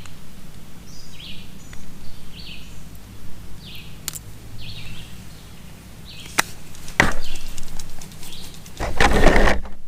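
A bird chirping repeatedly, short calls about once a second, over a steady low hum; a few sharp clicks come in the second half, and a louder rustling clatter near the end.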